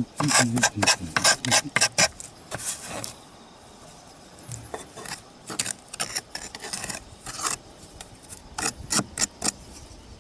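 Hand scraping and rasping on roof tiles during repair work: quick strokes at about five a second, then a short lull, then slower, more spaced strokes.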